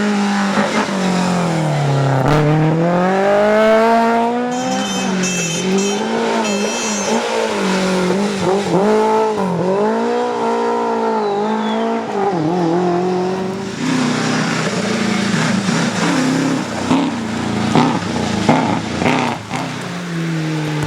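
Rally car engine revving hard and dropping back again and again as it works through the gears, with tyre squeal about 5 to 7 seconds in. Later it runs at a steadier, lower note, with a few sharp cracks near the end.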